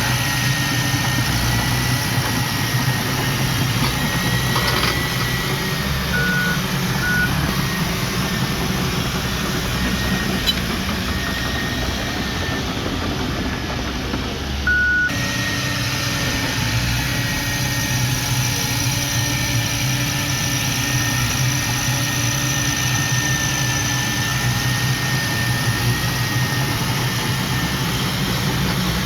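Heavy earthmoving machine engine running steadily, with a thin whine above it and a few short beeps that sound like a reversing alarm.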